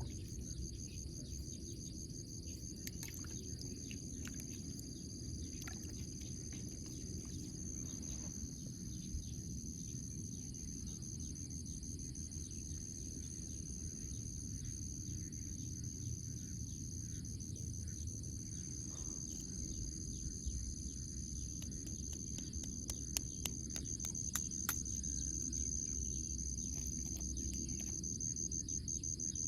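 Insects trilling steadily in a continuous high-pitched chorus with a fast pulsing, over a low steady rumble and a few faint clicks.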